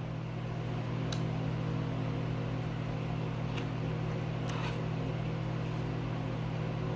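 A steady low mechanical hum, with a few short faint clicks about a second in and again around the middle.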